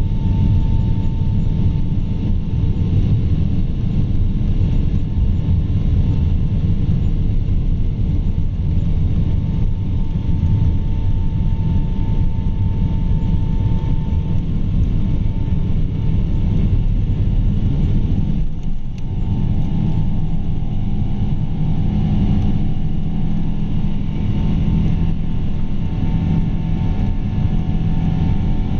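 Boeing 777-200's Pratt & Whitney PW4000 turbofan engines running at high power, a loud steady rumble with a held whine over it. The level dips briefly about two-thirds of the way through, then the sound carries on.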